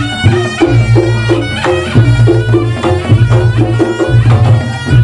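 Reog Ponorogo ensemble music (tabuhan reog) playing continuously: busy kendang drum strokes in a fast rhythm under a pitched melody line, with a pulsing low tone beneath.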